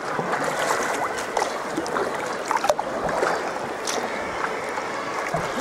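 Sea water lapping and splashing around a sea kayak, with small splashes and drips throughout.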